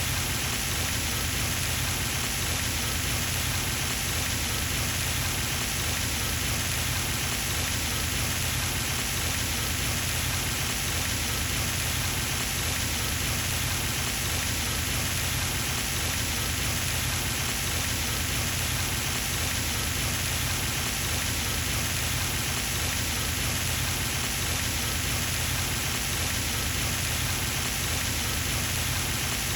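Pond fountain running: water from the jet falling back onto the pond surface in a steady, even splashing.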